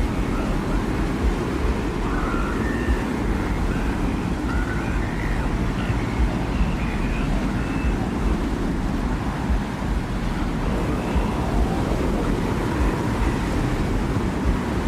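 Steady, low rumbling desert wind ambience, with faint short wavering whistles drifting in and out above it.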